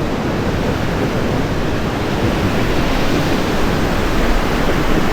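Steady rushing noise of surf at the shore with wind buffeting the microphone.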